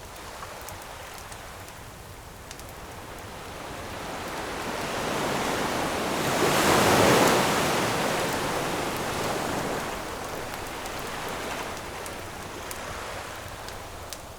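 One ocean wave swelling, breaking on the shore about halfway through and washing back out, with faint crackles from a wood campfire.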